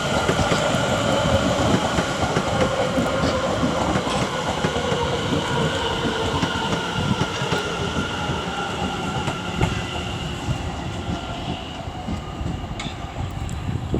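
London Overground Class 710 electric multiple unit pulling into the terminus platform and slowing. Wheel and rail rumble carries a steady whine that drops slightly in pitch, and the noise dies down over the last few seconds.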